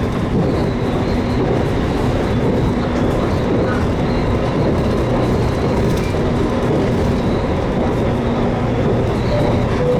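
JR Kyushu 813 series electric train running between stations, heard from inside the car: steady rolling noise of wheels on rail with a faint steady hum.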